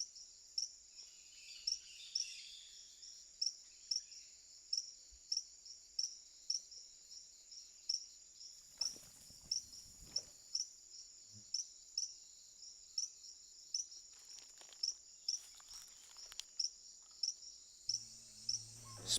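Rainforest insect chirping: short high-pitched chirps repeated at a steady, even rhythm of about three every two seconds.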